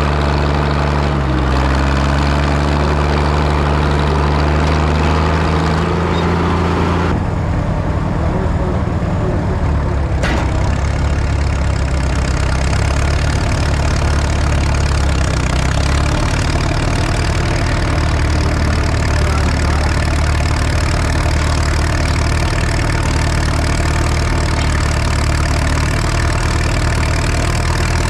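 Antique farm tractor engine running loud, its pitch shifting up and down. About seven seconds in, the sound changes abruptly to a steadier, lower-sounding run that continues.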